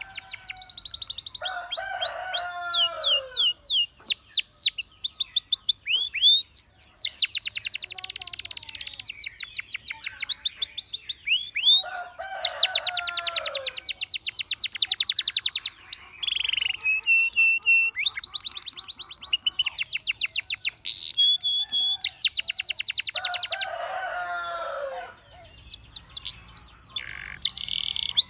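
Canary singing a long song of rapid trills and rolls, phrase after phrase with short breaks. A lower, falling phrase cuts in about every ten seconds: near the start, about twelve seconds in, and again near the end.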